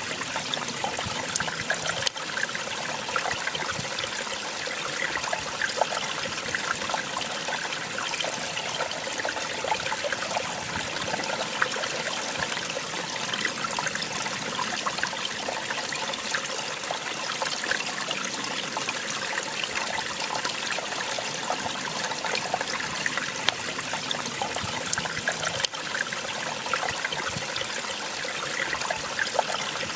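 Small waterfall splashing and trickling steadily, a continuous rush of falling water with frequent little splashes.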